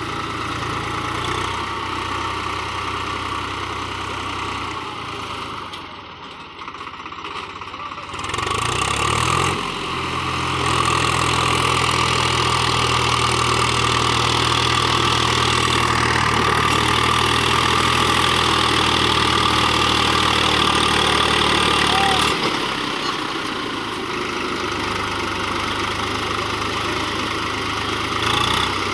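Swaraj 735 FE tractor's three-cylinder diesel engine running. It dips around five seconds in, revs up about eight to ten seconds in and holds a higher, louder note, then drops back about twenty-two seconds in.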